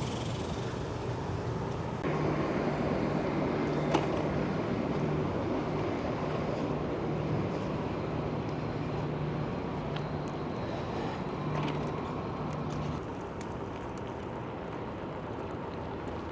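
Steady rolling noise of a bicycle being ridden, with a few sharp knocks and rattles, one clear knock about four seconds in.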